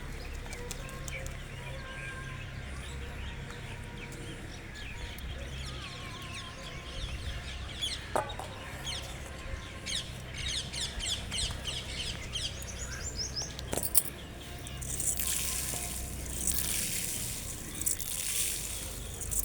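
A flock of birds feeding on scattered grain: many short high chirps and calls, then a loud flurry of wingbeats from about three-quarters of the way through, over a steady low hum.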